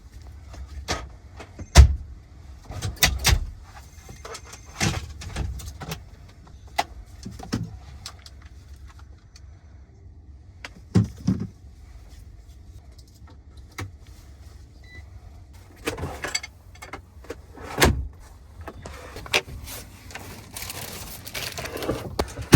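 Knocks, clatter and rustling of things being handled, opened and set down while food is being got ready in a truck's sleeper cab, over a steady low rumble.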